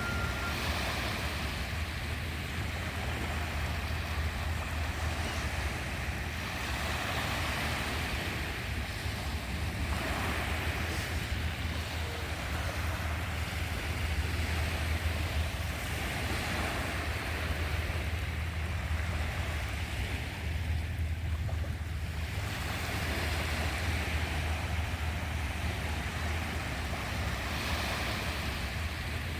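Sea waves washing onto a shore, the surf swelling and easing every few seconds over a steady low rumble.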